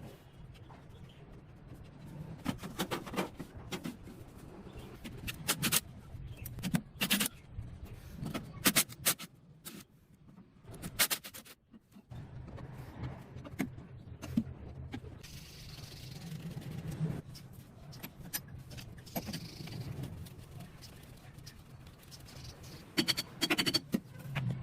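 Intermittent clusters of sharp metallic clinks and knocks, as of tool parts being handled and set down, over a low steady hum.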